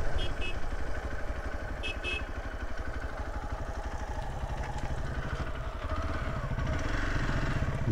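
Hero Xpulse motorcycle's single-cylinder engine running steadily as the bike rides along, heard from the rider's seat, its revs rising a little near the end.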